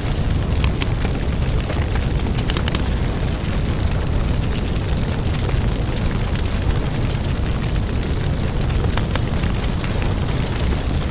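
Fire burning in a fireplace: a steady low rumble of flames with scattered crackles and pops.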